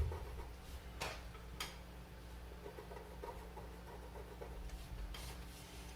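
Faint scratching of a pen drawing on paper, with a few light taps or strokes about a second in, shortly after, and near the end, over a low steady room hum.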